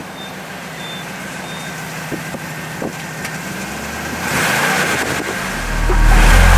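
1978 Camaro Z28's 5.7-litre V8 running as the car drives, its pitch rising about four seconds in. Loud music comes in near the end.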